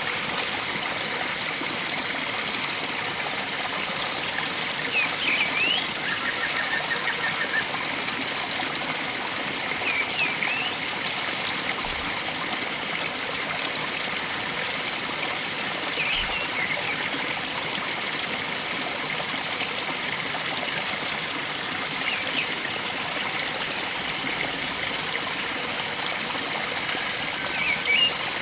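Steady rush of flowing stream water, with a bird giving short chirping calls about every five or six seconds.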